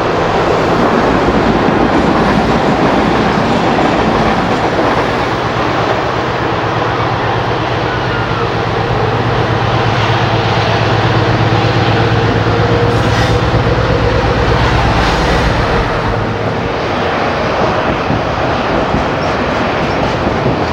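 BR Class 60 diesel locomotive, with its Mirrlees eight-cylinder engine, working a freight train past, its engine running at a steady note over the noise of wheels on the rails. About three-quarters of the way through the engine note drops away, leaving the rumble of the passing wagons.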